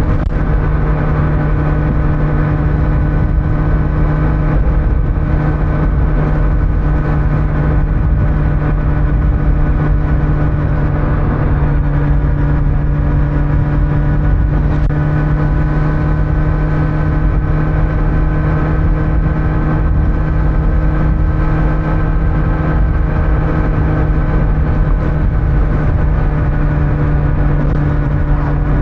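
Kawasaki Z900 inline-four motorcycle engine on its stock exhaust, cruising at a steady speed with the engine note holding one pitch, over wind and road noise.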